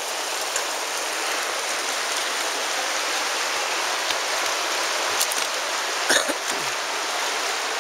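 The Virgin River flowing, a steady rush of water, with a brief sharp sound about six seconds in.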